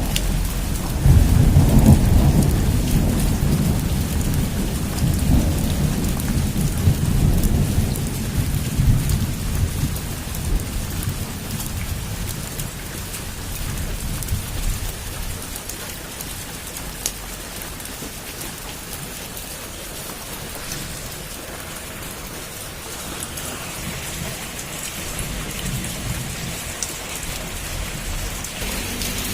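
Heavy rain falling steadily on a rooftop, with a long rumble of thunder that swells about a second in and dies away over the next ten seconds or so.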